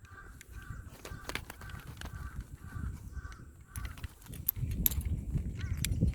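A bird, crow-like, giving a run of about eight short, evenly spaced harsh calls that stop a little under four seconds in, with scattered sharp clicks and knocks and a low rumble.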